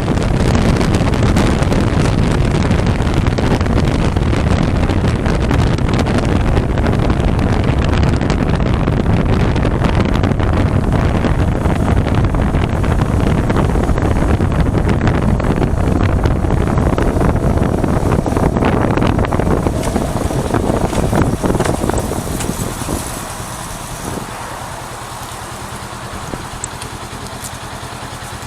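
Wind rushing over the microphone with the running noise of a 400cc motorcycle at highway speed. About 22 seconds in the rush dies down, leaving the engine's steady low note at low revs.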